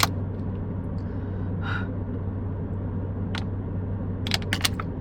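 Steady low hum inside a running car's cabin, with a soft breath about two seconds in and a quick run of sharp clicks near the end.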